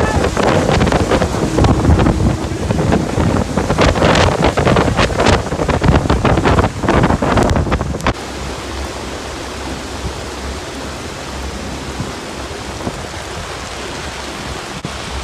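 Wind buffeting the microphone and rushing water as a boat runs through a heavy rainstorm on a lake. About eight seconds in the gusty noise drops suddenly to a steadier hiss.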